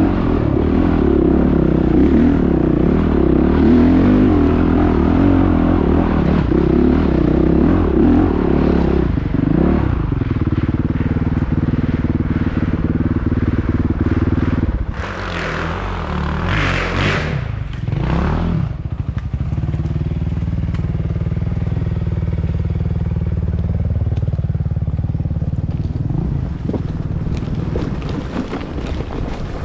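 Off-road motorcycle engines running steadily, with a louder stretch of revving for the first third and a hard burst of revving for a few seconds around the middle.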